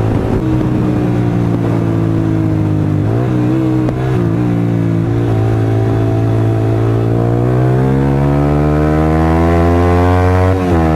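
Honda CBR125R's single-cylinder four-stroke engine heard from the rider's seat while riding. It runs steadily with a gear change about three to four seconds in, then rises in revs as the bike accelerates over the last few seconds, with another shift near the end.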